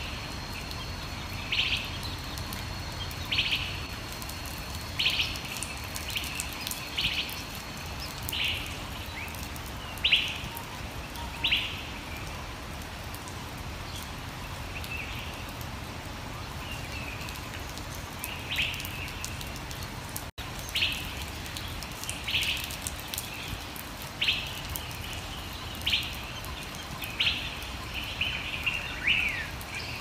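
Bird calls: short chirps repeating about every one and a half to two seconds, with a pause of several seconds in the middle, over a steady low background hiss.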